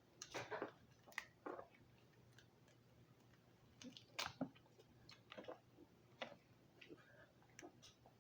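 Faint, irregular clicks and crackles of lobster shell being broken apart by hand, in clusters near the start, around the middle and near the end, as meat is worked out of the knuckles.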